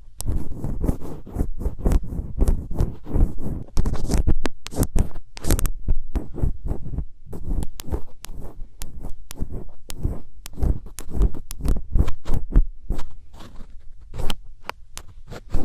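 Thin ear pick scraping and scratching in an ear close to the microphone: a dense, irregular run of scratches and clicks.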